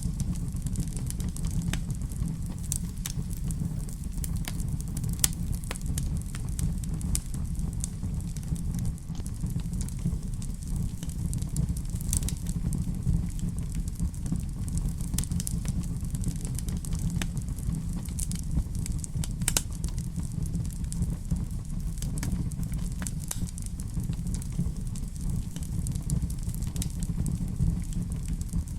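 Wood fire burning in a fireplace: a steady low rumble of the flames under frequent, irregular sharp crackles and pops from the burning logs.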